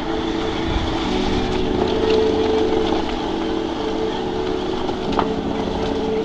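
Hero XPulse 200 single-cylinder four-stroke motorcycle engine running at low speed on a gravel track, its note shifting slightly about a second in and again near the end, with road and wind noise and a brief click about five seconds in.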